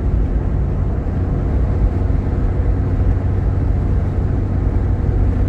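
Jeep Grand Cherokee's 3.7-litre V6 and tyres heard as a steady low rumble while the vehicle drives along.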